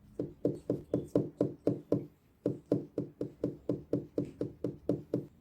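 Rapid, even knocking, about four knocks a second. There is a run of about eight knocks, a half-second break about two seconds in, then about eleven more.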